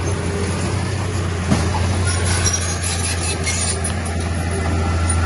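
Heavy diesel earthmoving machinery engine running steadily with a low drone, with a single sharp knock about one and a half seconds in.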